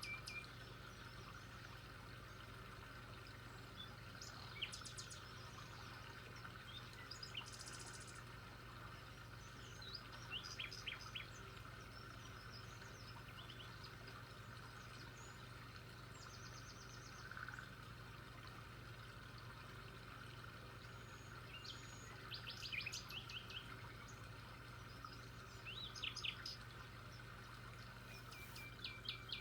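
Several birds chirping and calling now and then in short series of quick notes and brief high trills, over a faint steady hiss and low hum.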